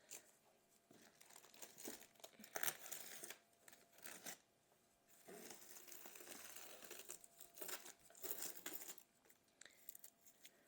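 Faint crinkling and tearing of packaging as a cardboard box holding a flat-pack bookcase is opened, in irregular bursts with a short pause about four seconds in.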